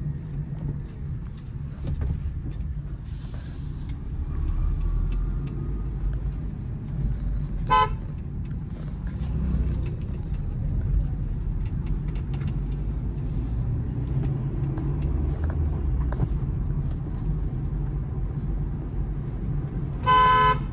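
Steady low engine and road rumble inside a moving Honda City, broken by two short car-horn honks, one about eight seconds in and a second, slightly longer one near the end.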